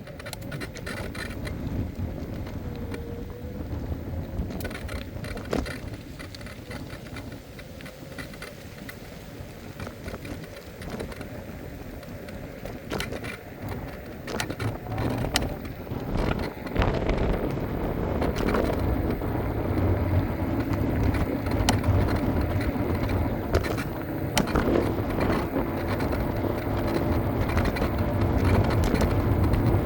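Riding an electric scooter: steady low rumble of wind on the microphone and the wheels rolling on pavement, with many small clicks and rattles. It gets louder from about halfway through.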